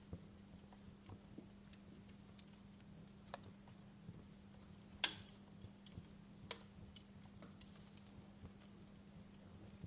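Wood fire in a fireplace crackling, with irregular small snaps and a sharper pop about halfway through. A faint steady low hum sits underneath.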